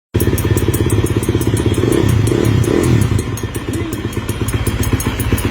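Motorcycle engine idling with an even ticking clatter of about seven beats a second. It is an unexplained noise whose source is being sought.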